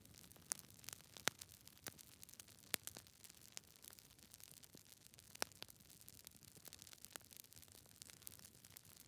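Logs burning in a fireplace, crackling: a faint steady hiss with irregular sharp pops, a few of them louder, about a second, three seconds and five and a half seconds in.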